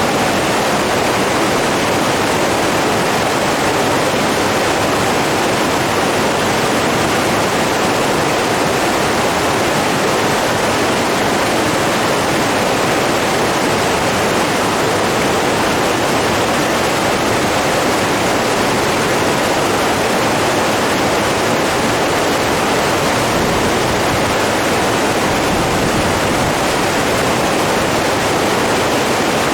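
Steady, unbroken rush of running water at an even level throughout.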